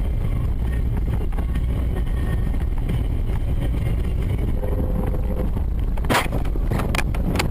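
Steady rumble of road and wind noise from a moving car. A sudden loud bang comes about six seconds in, followed by a few sharp knocks.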